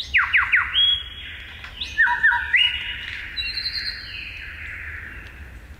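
Superb lyrebird singing its mimicked song: three quick falling notes, then long whistled notes that step up and down and slowly fall away.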